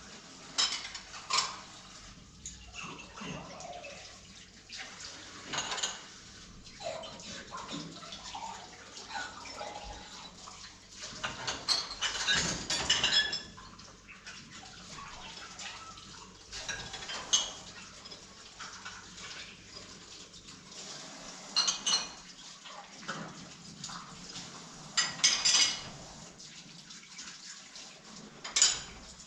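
Intermittent clinks and clatter of pots, dishes and utensils being handled during food preparation, with a denser run of clattering about halfway through.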